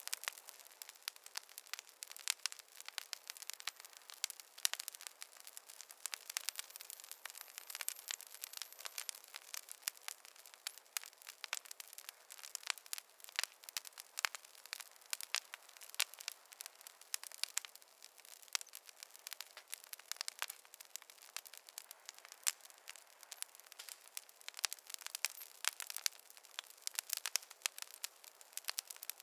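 Campfire crackling: dense, irregular pops and snaps over a faint hiss.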